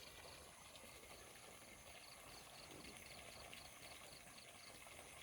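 Near silence: faint outdoor background hiss with a faint high chirp repeating evenly, about three times a second.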